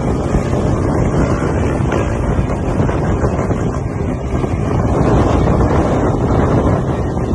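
Heavy wind buffeting on the microphone of a moving motorcycle, with the bike's engine running under it at riding speed.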